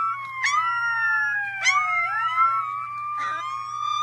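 A dog howling along with wailing sirens: several long pitch glides rise and fall over one another, broken by short sharp upward yelps about once a second.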